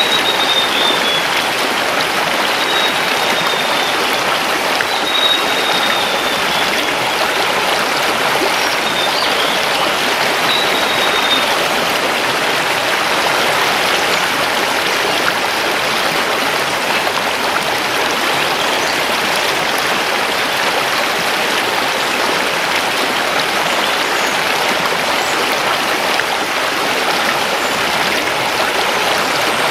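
Mountain river rushing steadily over stones. A bird gives a few short, high, slightly falling calls in the first dozen seconds.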